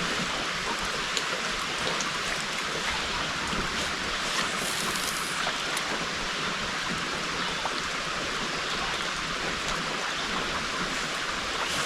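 Heavy rain falling in a steady hiss, with the odd faint tick of a single drop.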